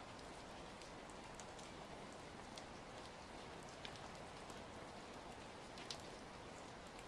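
Steady rain hiss with scattered small pops and crackles from a fire, one sharper pop about six seconds in.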